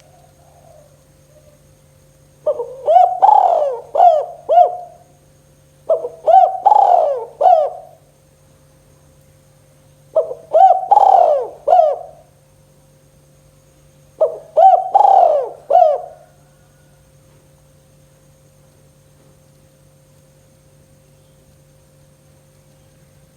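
Spotted dove cooing: four phrases a few seconds apart, each a quick run of several coo notes, over a steady electrical hum.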